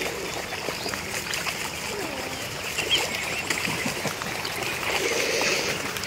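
A flock of small songbirds chirping and twittering, many short calls overlapping, with a lower murmur that swells near the end.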